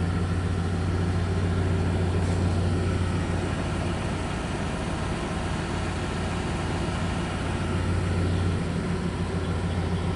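1995 Chevrolet C2500's 5.7-litre 350 small-block V8 with throttle-body fuel injection running steadily, a constant low hum with no revving.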